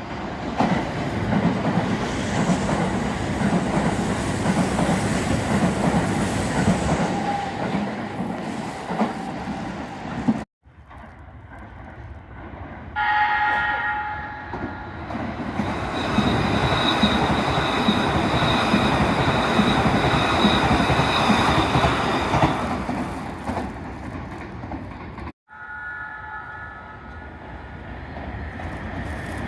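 Trains running through a station, with a steady rumble of wheels on the rails. A horn sounds for about a second and a half midway, and briefly again near the end. The sound breaks off abruptly twice.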